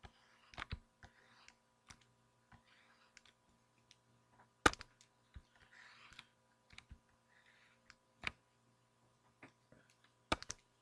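Irregular sharp clicks and light taps with soft scratchy rustles between them, the loudest clicks about five seconds in, near eight seconds, and a close double click near the end, over a faint steady hum.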